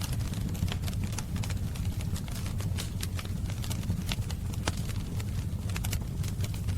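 Fireplace fire crackling: frequent, irregular sharp pops and snaps over a steady low rumble of the flames.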